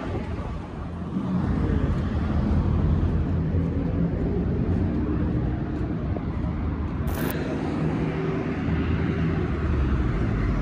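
Steady low vehicle rumble with a droning engine-like hum, and one short burst of noise about seven seconds in.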